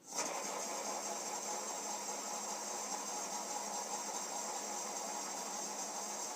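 Shopsmith Power Pro headstock motor running steadily at a low speed of about 500 RPM: an even whir with a faint steady hum, starting abruptly right at the beginning. The machine is running normally.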